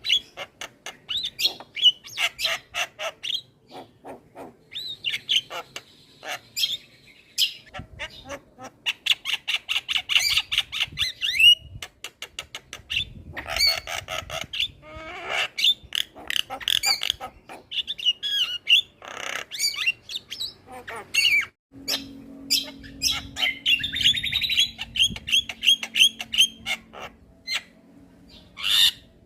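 Javan myna (jalak kebo) calling: a busy, continuous run of harsh squawks, chirps and fast rattling trills, with short upswept whistled notes.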